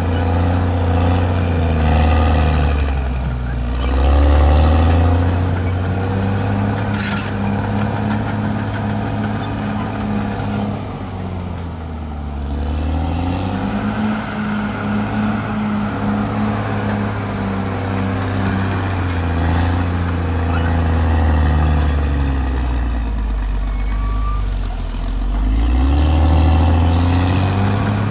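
Caterpillar D6R XL bulldozer's diesel engine running loudly under load as the dozer works. Its pitch sags and recovers about three times, as the blade takes on and sheds soil.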